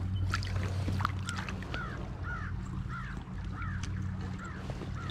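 A bird calling over and over, a short rising-and-falling note about twice a second, starting about a second in, over a steady low hum, with a few faint clicks.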